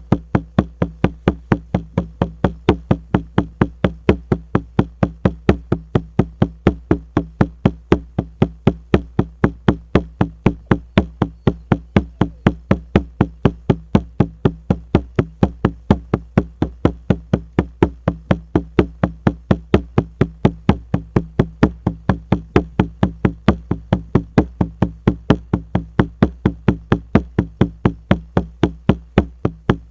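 Frame drum (buben) beaten in a steady, even rhythm of about three strikes a second, each strike followed by a low, booming ring that carries under the beat.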